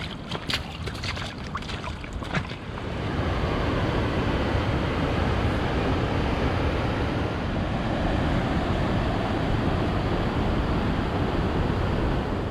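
A few sharp splashing steps, then from about three seconds in a steady, loud rush of fast-flowing water from a rain-swollen creek.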